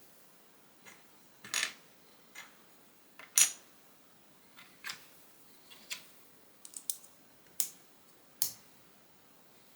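Small plastic Lego pieces clicking and clattering as they are handled and snapped together: about a dozen sharp, irregular clicks, the loudest about three and a half seconds in.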